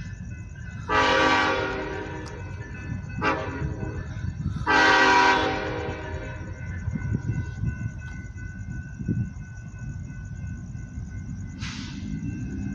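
Approaching freight locomotive's air horn sounding three blasts, long, short, long, each fading away, over a steady low rumble.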